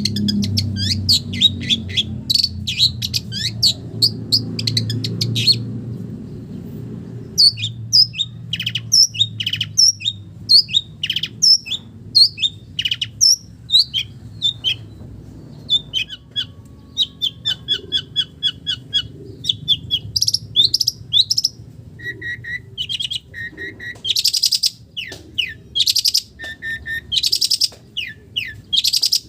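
Long-tailed shrike (cendet) singing a fast, varied song of chattering notes and short whistled slurs, full of mimicked calls of other birds; a run of rapid repeated notes comes midway, and loud harsh rasping calls follow near the end.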